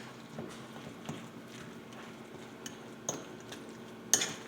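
Kitchen utensils clinking and tapping against a mixing bowl and the counter, quiet and scattered, with sharper knocks about three seconds in and just after four seconds.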